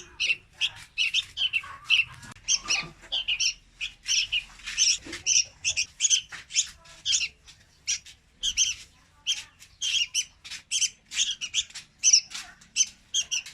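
Young red-whiskered bulbul calling in a rapid, unbroken run of short high chirps, about three or four a second.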